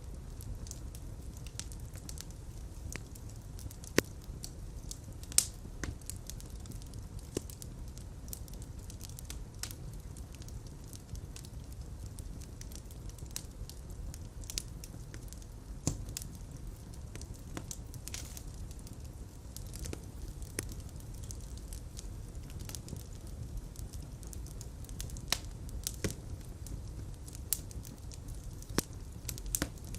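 Fire burning in a fireplace: a steady low rumble of flames with scattered crackles and pops. The sharpest pops come about four and five seconds in.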